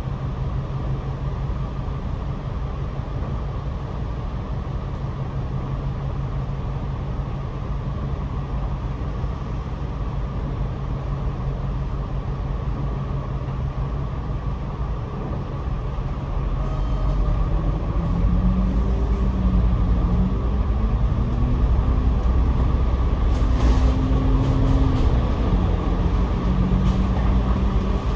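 Double-decker bus heard from the upper deck: a steady low engine and road hum, then, about two-thirds of the way through, the engine grows louder and its tone rises and steps up as the bus accelerates through its gears.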